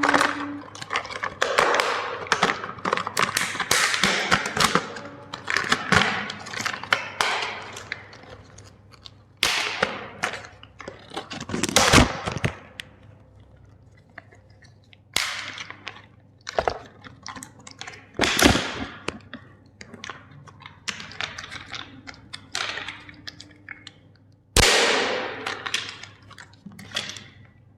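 Plastic toys cracking and crunching as they are crushed: a dense run of snaps and crackles for the first several seconds, then single sharp cracks every few seconds.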